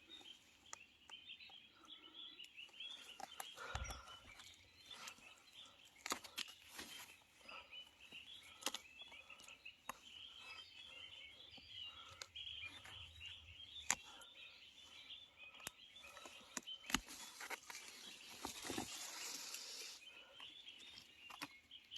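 Faint forest ambience of birds chirping, with scattered sharp clicks and a stretch of rustling near the end from someone moving and handling things in the undergrowth.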